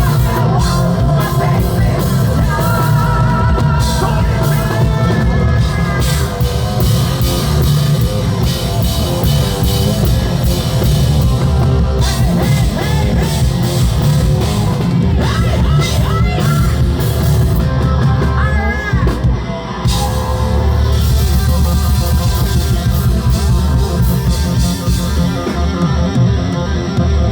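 Live hard rock band playing loudly: distorted electric guitar, bass guitar and drum kit, with sung vocal lines over them.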